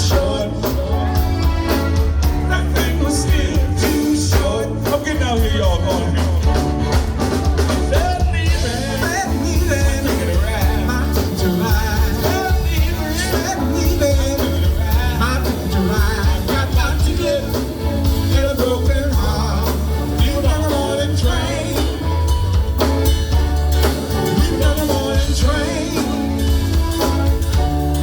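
Live band music with a heavy, steady bass line, drums with cymbals, and a moving melodic lead over them.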